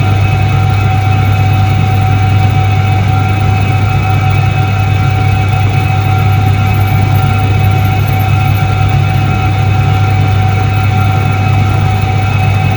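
Soviet 1978 ISET-3 washing machine running: a steady, even motor hum with a higher whine held above it and no change in pace.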